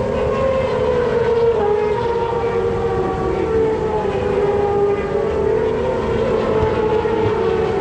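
Racing motorcycle engines running at high revs, a loud, sustained whine that holds a nearly steady pitch and drifts only slightly.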